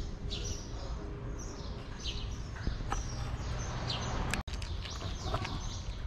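Small birds chirping repeatedly in short, quick, falling notes over a steady low background hum of the street.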